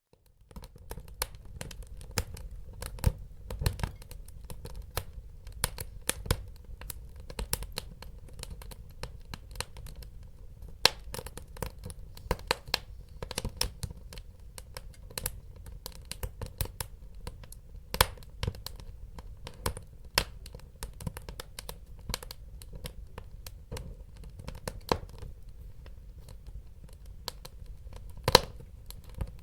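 Wood fire crackling, with frequent sharp pops and snaps of varying loudness over a low steady rumble of the burning; it starts out of near silence about half a second in.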